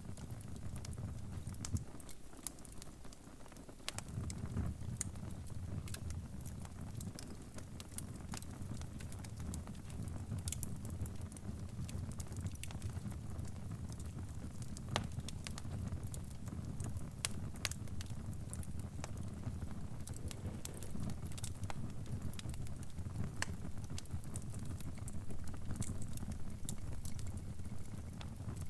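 Wood fire crackling, with irregular sharp pops and snaps over a steady low rumble of the flames; the rumble drops away briefly about two seconds in and returns about four seconds in.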